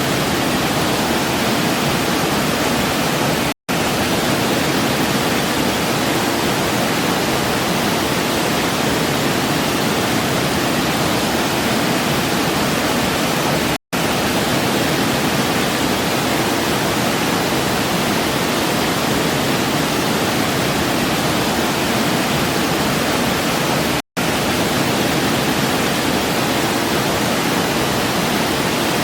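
Waterfall: a steady rush of falling water. It cuts out to silence for a split second three times, about ten seconds apart.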